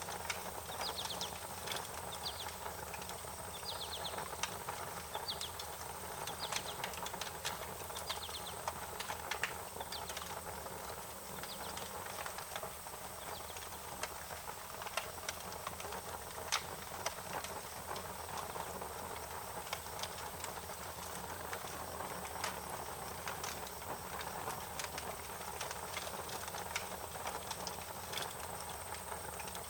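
Wood fire crackling, with irregular sharp pops over a steady hiss. A bird gives short, high chirping calls over roughly the first ten seconds.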